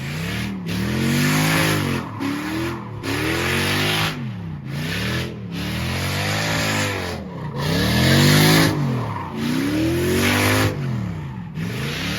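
Car engine revving hard in repeated surges, its pitch climbing and falling back about once a second, with bursts of tire screech from wheelspin.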